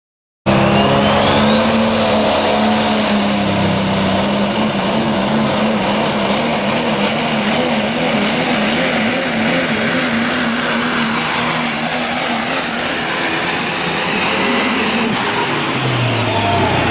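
Super stock diesel pulling truck running hard under load, its turbocharger whistle climbing steeply over the first couple of seconds, holding high for about twelve seconds, then dropping away as the throttle comes off.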